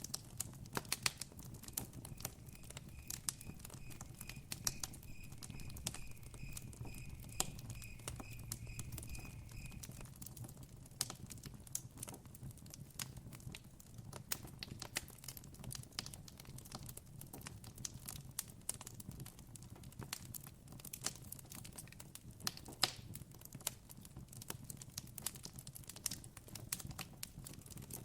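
Campfire crackling, with frequent sharp pops over a low steady rumble. From about two to ten seconds in, a faint run of evenly spaced high chirps, about two or three a second, sounds alongside it.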